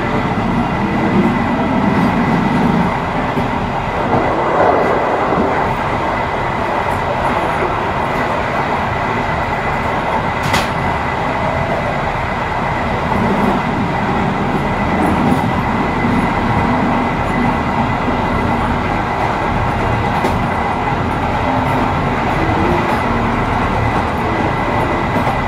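Train running at speed over the rails: a steady rumble with a thin, steady high whine and a single sharp click about ten seconds in.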